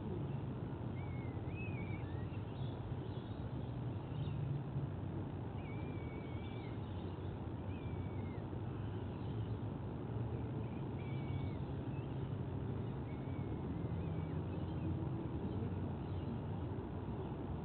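Faint, short chirping bird calls every second or two over a steady low rumble.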